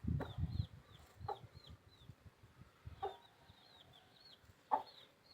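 A chicken clucking three times, short separate calls, with faint high chirps repeating in the background and a low rumble in the first second.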